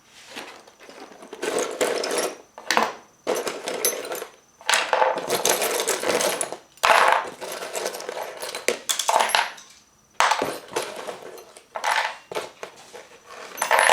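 Small tools and wooden parts being handled on a workbench, clattering and scraping in a string of short, irregular bursts.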